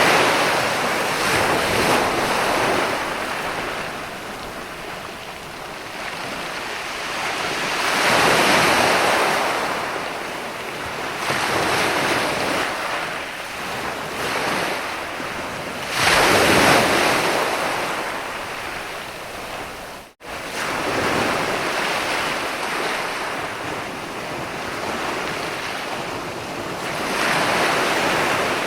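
Mediterranean sea waves breaking and washing up onto a beach, the surf swelling and easing back about every eight seconds. A momentary dropout cuts the sound about two-thirds of the way through.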